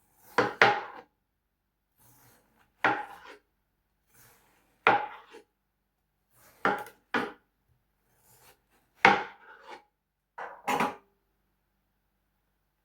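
Knife chopping through watermelon onto a cutting board: a string of sharp cuts with short scraping tails, one every second or two.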